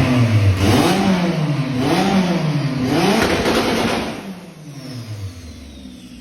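A vehicle engine revved hard up and down several times, its pitch rising and falling about once a second, then easing off about four seconds in.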